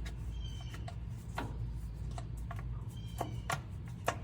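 Worn PTO shift fork and shaft of a Ford 3000 tractor knocking metal on metal as it is wiggled by hand, a few sharp irregular clicks over a low steady hum. The clicks come from the slop in the worn-out fork linkage, the cause of the PTO lever's hydraulic leak.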